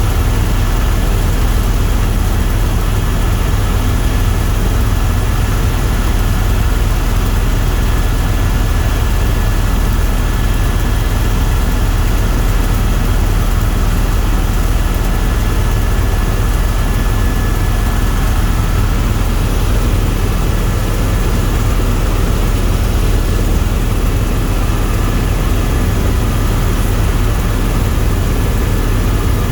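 Tour helicopter in steady flight, heard from inside the cabin: a constant deep rotor and turbine drone with a thin steady whine above it, unchanging throughout.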